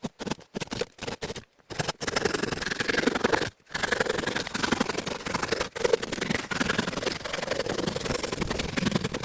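Hand saw cutting wood in a run of repeated rasping strokes, with brief pauses near the start and once in the middle.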